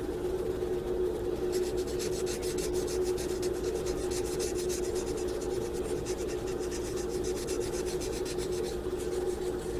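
Pencil shading on paper: quick back-and-forth scribbling strokes filling in a drawn eye, starting about a second and a half in and stopping shortly before the end, over a steady low hum.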